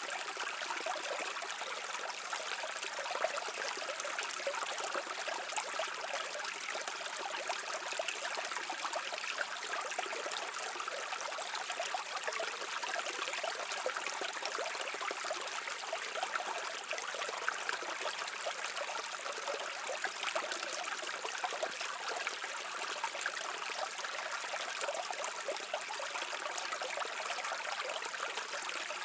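A small stream running over stones, a steady babble with many small trickles and splashes.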